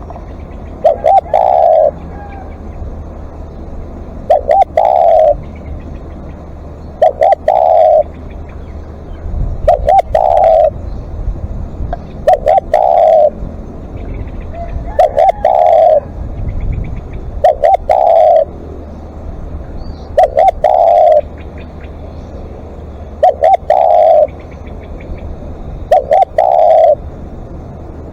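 Spotted dove cooing repeatedly, one phrase about every two and a half seconds, each a couple of short notes running into a longer held coo. Faint chirps of other small birds sound between the phrases.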